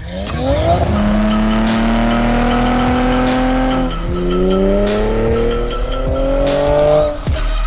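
2023 Nissan Z's twin-turbo V6 through an Ark Performance GRiP cat-back exhaust, accelerating under load. The engine note rises quickly, climbs steadily through a gear, drops at an upshift about four seconds in, climbs again and falls away near the end.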